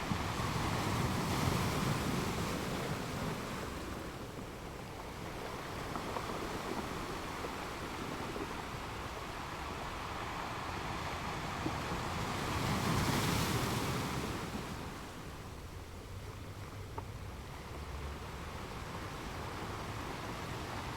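Ocean waves washing in a steady noisy rush, swelling louder twice: once a second or two in, and again just past the middle.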